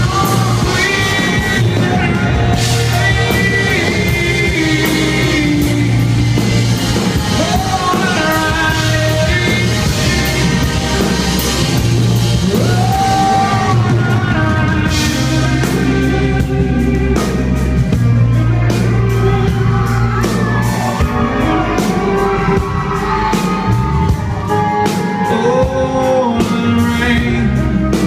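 Live country-rock band with a male lead singer performing a song, sung melody over steady bass and drums, heard in a large hall.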